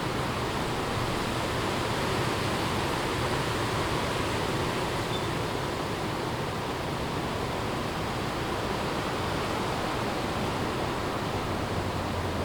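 Strong wind blowing through forest trees and leaves, a steady rushing noise.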